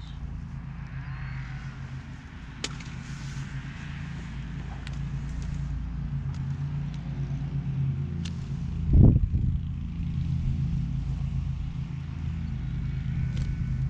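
A vehicle engine runs steadily with a low hum, with a single loud thump about nine seconds in and a few light clicks.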